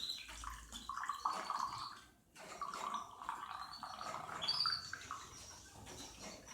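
Onion juice trickling and dripping into a glass as grated onion is squeezed through a fine cloth, the flow uneven and stopping briefly a little over two seconds in.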